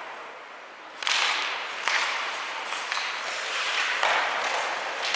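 Ice hockey play on the rink: skates scraping the ice, with scattered clacks of sticks and puck. The noise starts suddenly about a second in.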